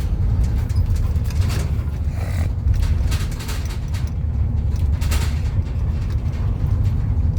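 Road noise inside a moving car: a steady low rumble of tyres and engine, with a few brief knocks.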